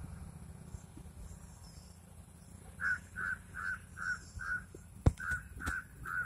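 A bird calls a quick run of short, same-pitched notes, about two or three a second. Five calls come, a sharp click breaks in, then three more follow, over a steady low rumble and faint higher chirps.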